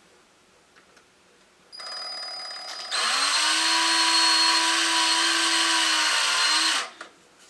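Power drill driving a screw into a plastic-shimmed hole. It starts softly about two seconds in, then the motor whines up to full speed, holds steady for about four seconds and stops abruptly.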